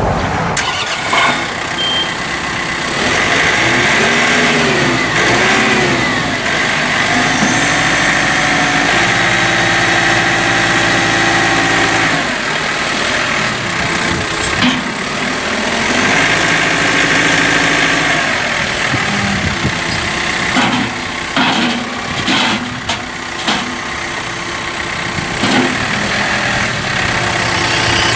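John Deere 4052R's four-cylinder turbo Yanmar diesel engine running, its engine speed rising and falling in places, with a few short clunks in the second half.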